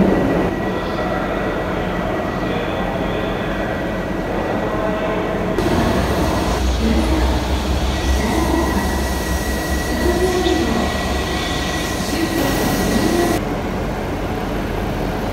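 Railway platform ambience of a Shinkansen station, with a train's low rumble and hiss. The rumble sets in suddenly about six seconds in and drops away suddenly about thirteen seconds in, and a faint steady high tone runs underneath.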